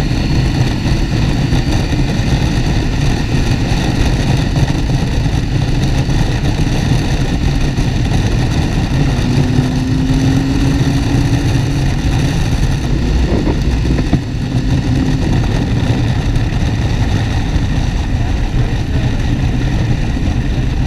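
Motorcycle engine running at road speed under heavy wind rush, heard from a rider's helmet camera.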